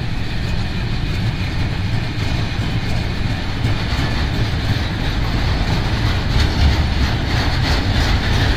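Freight train wagons, container flatcars giving way to open wagons, rolling steadily past: a continuous rumble and clatter of steel wheels on the rails, with faint clicks over rail joints later on.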